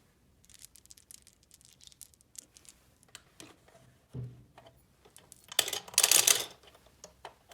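Small plastic toy pieces being handled: scattered light clicks and taps, a soft knock about four seconds in, then a loud rustling burst lasting about a second around six seconds in.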